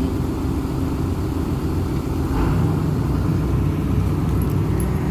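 Cat 320D2 excavator's diesel engine running steadily, its note growing heavier and deeper about halfway through.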